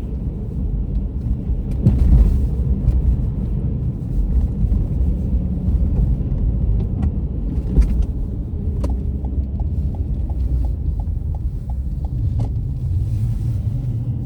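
Car driving, with a steady low rumble of engine and road noise heard from inside the cabin and a few sharp knocks. A little past the middle comes about three seconds of light, regular ticking, roughly three ticks a second.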